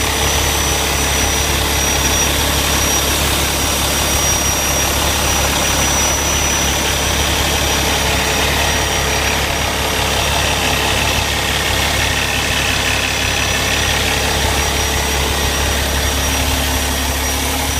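Cummins ISX inline-six diesel in a 2011 Peterbilt 389 highway tractor, idling steadily.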